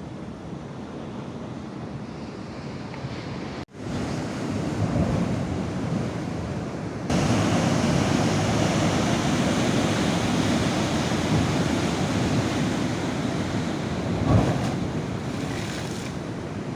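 Sea waves washing on the shore, with wind buffeting the microphone. The sound drops out for an instant about four seconds in, then comes back, and it gets louder from about seven seconds.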